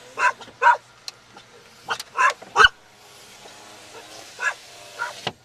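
A dog barking several times, in short groups of two or three.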